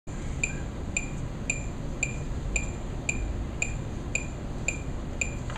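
Regular, sharp ticking about twice a second, each tick with a short bright metallic ring, over a steady low hum.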